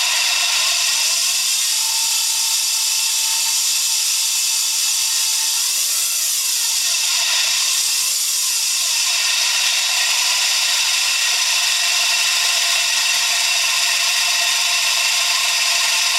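Daihatsu Hijet S321V alternator running with an abnormal whirring, grinding whine over the engine. Its pitch sweeps up and back down a couple of times about halfway through.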